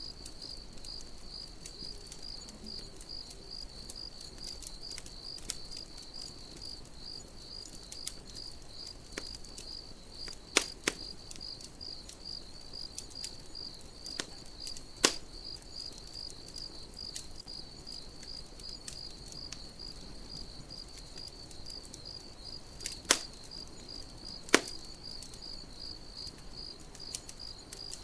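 Crickets chirping in a steady, even pulse while a campfire crackles, with a handful of sharp pops from the burning wood scattered through.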